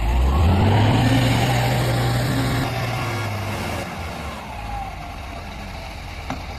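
Truck engine revving up sharply in the first second, holding a steady higher speed for a couple of seconds, then easing off and dropping to a lower, quieter running level.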